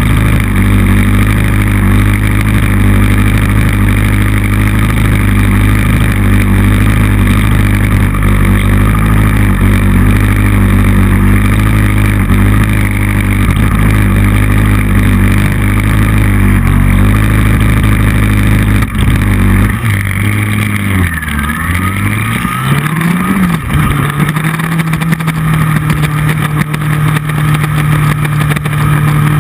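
Motorcycle engine heard from a bike-mounted camera at speed, with heavy wind rush on the microphone. About 19 seconds in, the wind rush drops away and the engine note dips, then climbs again. It then settles into a steady note.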